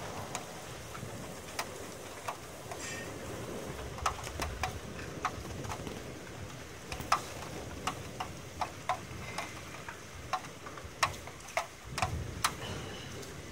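Heavy rain falling steadily, with irregular sharp taps of drops striking a hard surface close by, about one or two a second.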